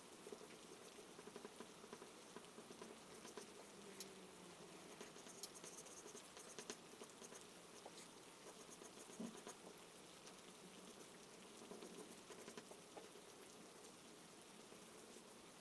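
Faint rain sound: a soft, even hiss with light, scattered patter and ticks.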